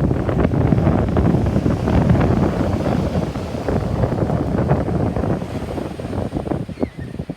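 Wind buffeting the microphone, with ocean surf underneath; the gusts ease off near the end.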